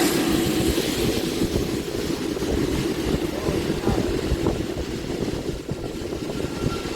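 Aircraft engines running with a steady drone, an irregular low rumble beneath it.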